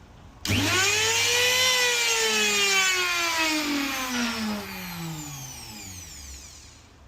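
CNC router's spindle motor switched on briefly: it spins up quickly to a high whine about half a second in, then winds down, falling steadily in pitch and fading over about five seconds.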